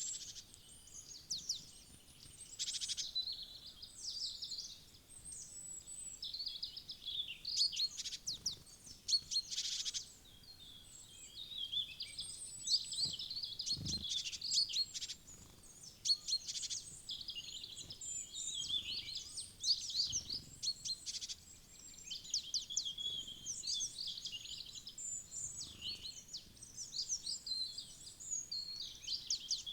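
Small woodland songbirds, such as tits, chirping and calling continuously, with many short high calls and trills overlapping. There is one soft low thump about halfway through.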